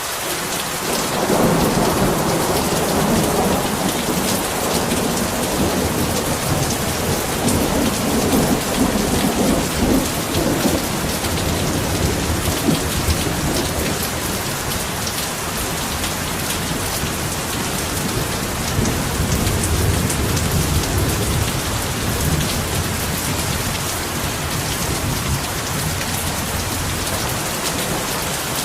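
Heavy rain falling steadily, with long rolls of thunder rumbling low beneath it: one from about a second in, lasting roughly ten seconds, and another about two-thirds of the way through.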